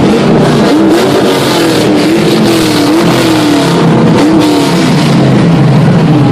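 Many car engines revving at once, overlapping revs climbing and dropping over and over in a loud, continuous din.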